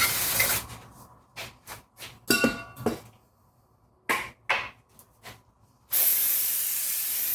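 Aerosol brake cleaner sprayed onto the rear brake parts in two hissing bursts: one ending about half a second in, the other starting about six seconds in. Between them, a few light metallic clinks and knocks, one with a short ring.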